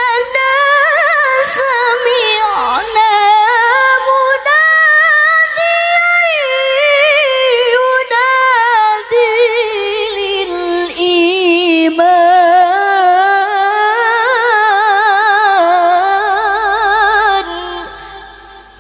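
Female voice reciting the Qur'an in the melodic tilawah (qiroah) style: a long, high-pitched, ornamented chanted passage with rapid wavering trills, fading out near the end.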